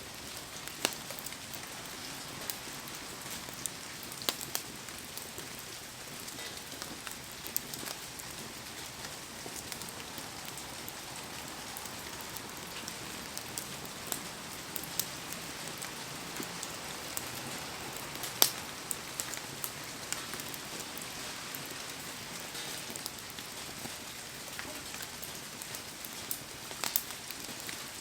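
Heavy rain falling steadily in an even hiss, with scattered sharp pops and ticks through it, one clearly louder about two-thirds of the way in.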